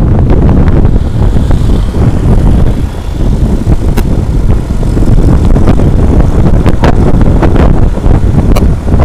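Heavy wind buffeting on the microphone over the rumble of a moving truck, with a couple of brief sharp ticks.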